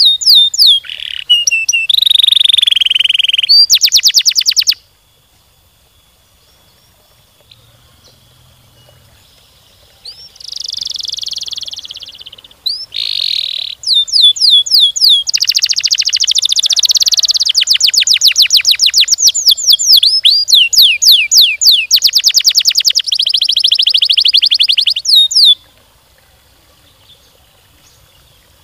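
Domestic canary singing in long rolled trills of fast, rapidly repeated high notes. The phrases are broken by pauses of several seconds, and the longest run lasts about ten seconds in the middle.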